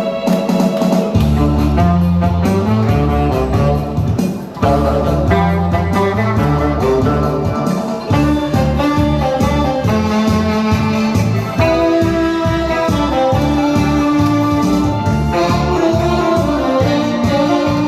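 Tenor saxophone playing a melody over a backing track with bass and guitar, with long held notes.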